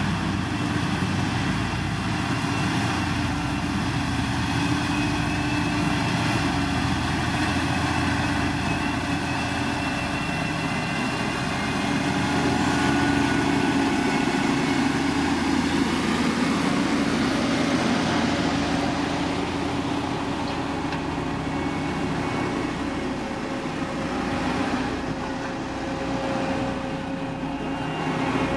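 The diesel engine of a heavy road-building machine, such as a motor grader or road roller, running steadily, a little louder about halfway through.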